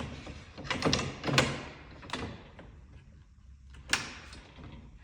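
DeWalt table saw rip fence being handled and slid into its storage spot: scraping and clattering knocks, loudest about a second in, then a single sharp knock near the four-second mark.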